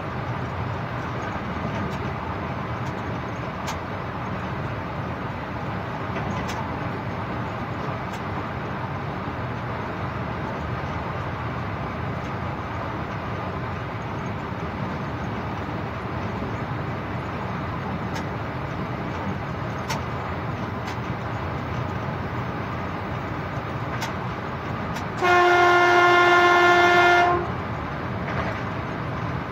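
Steady running noise of a train heard from the locomotive cab. Near the end the locomotive's horn sounds one blast of about two seconds, the loudest sound here.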